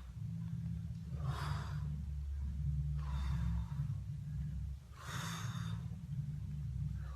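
A person breathing hard with exertion during an ab exercise: forceful breaths about every two seconds. A steady low hum runs underneath.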